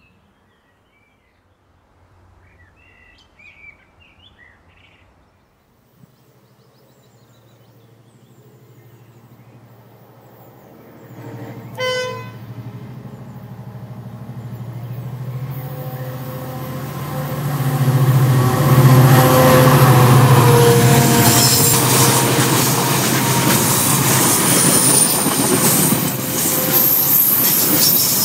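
An 071 class diesel locomotive, with its GM two-stroke V12 engine, approaching and passing at the head of a laden timber train. Its engine drone builds from about six seconds in, and a brief horn note sounds near the middle. The loaded log wagons then roll by loudly, with wheel clatter and a high squeal.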